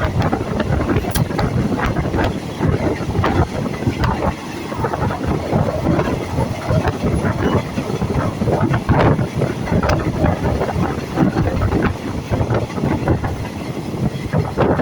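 Passenger train running on the rails, its wheels clattering and knocking irregularly over a steady rumble.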